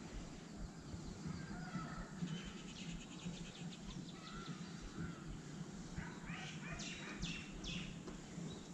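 Birds chirping faintly, with a few short calls and then a quick run of high calls near the end, over a steady low background rumble.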